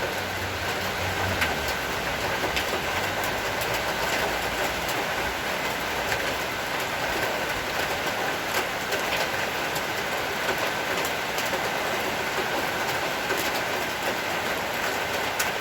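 Heavy rain falling steadily: a dense, even hiss with scattered drop taps.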